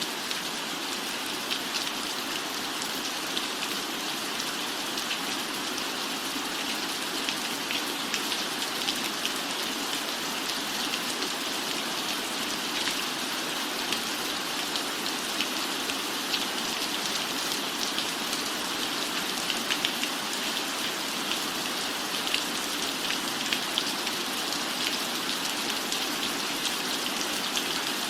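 Steady rain: an even hiss with many small, sharp drop ticks, unchanging throughout.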